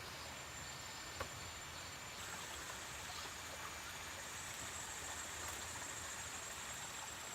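Steady outdoor ambience: an even hiss like water or rain, with a faint high steady tone above it and one small click about a second in.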